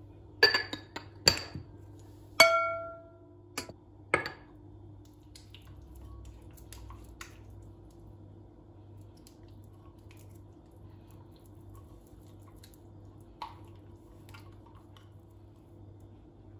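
Kitchenware clinking: five sharp clinks in the first four or five seconds, the third ringing on briefly like glass or ceramic, then only a few faint small taps over a steady low hum.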